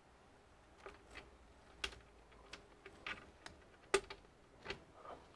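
Keys pressed on a computer keyboard: a dozen or so light, irregularly spaced clicks.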